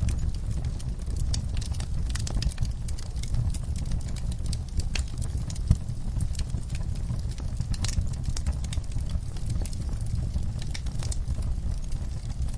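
Wood fire crackling in a fireplace: many quick irregular pops and snaps over a steady low rumble of burning logs, with one sharper pop a little before the middle.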